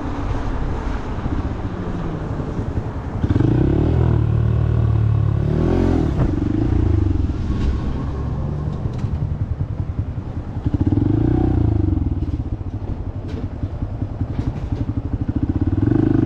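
A motorcycle being ridden in city traffic. The engine pulls away and eases off several times, with wind rushing over the microphone.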